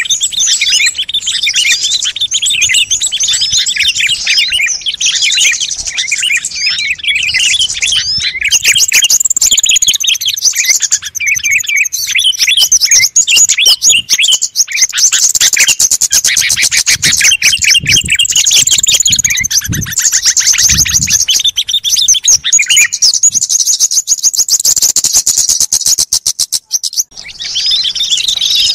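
Dense chattering of many small songbirds, rapid high chirps and trills overlapping without a break except for a brief gap near the end: a bird-lure track of small birds calling excitedly.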